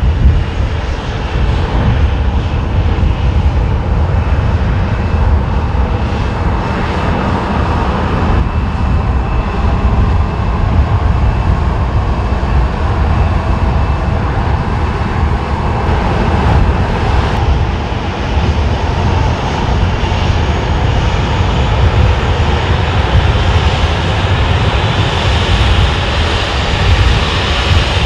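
Jet engines of a Boeing 737-800 running steadily, with strong wind rumbling on the microphone. The engine noise grows brighter and a little louder over the last several seconds.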